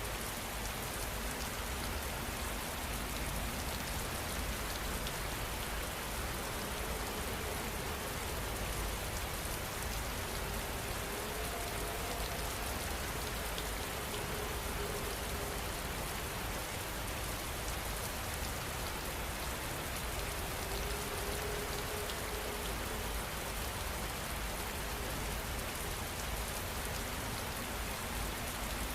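Rain falling steadily, an even hiss of drops that does not change.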